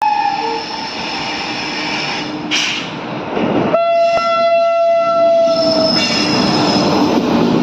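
Train running past with a steady rumble and rattle, its horn sounding one long blast about four seconds in that holds for about two seconds.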